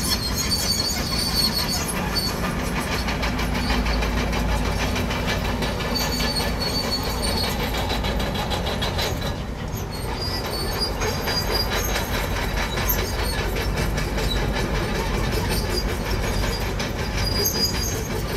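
Komatsu crawler bulldozer working, its steel tracks clanking and squealing over a steady diesel engine rumble.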